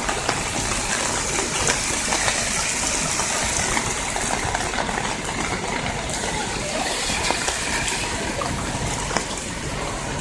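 Heavy rain pouring onto a city street: a steady, dense hiss of drops striking wet pavement, with many small ticks of close drops.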